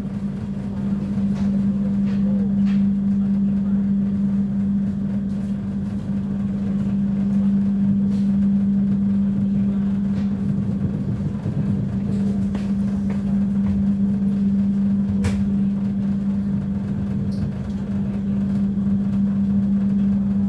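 Steady mechanical drone of a train: one constant low hum over a rumble, unchanging, with a few faint clicks.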